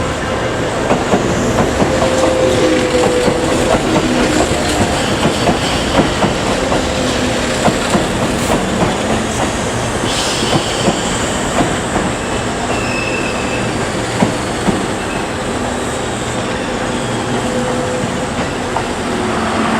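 A train running past on the rails, its wheels clacking rhythmically over the rail joints with brief squeals from the wheels.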